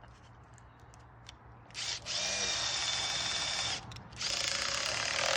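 Power drill running in two bursts of about two seconds each, with a steady whine, after a short quiet start.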